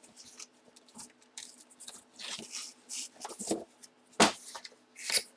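Hands unwrapping a boxed hockey puck: plastic and cardboard packaging crinkling and tearing in short rustles, with one sharp click about four seconds in.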